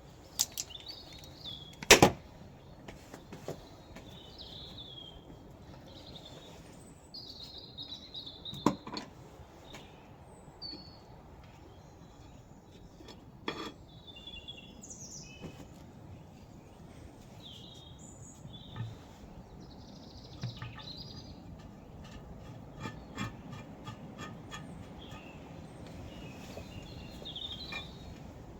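Birds chirping on and off, with sharp knocks and clicks now and then, the loudest about two seconds in, and a run of light ticks in the last third.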